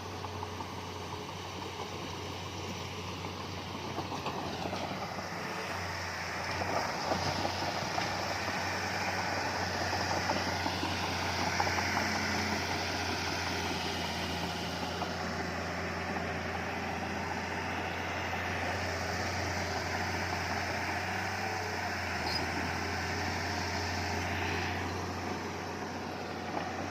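Diesel engine of heavy earthmoving machinery running steadily, with a low hum throughout and a rougher, louder mechanical noise building from about four seconds in.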